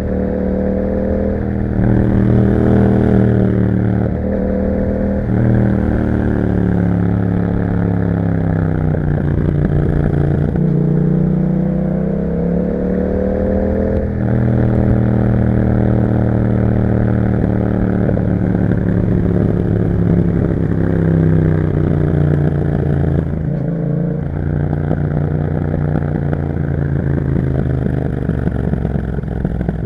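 A Yamaha MT-07's parallel-twin engine running through an Akrapovic exhaust with a dB killer while being ridden. Its pitch climbs and falls repeatedly as the throttle opens and closes, with short dips where gears change.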